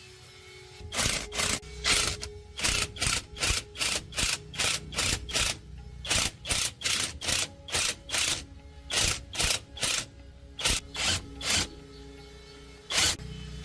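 A hand tool worked on metal in quick rhythmic strokes, about two to three a second, with short pauses between runs and one last stroke near the end.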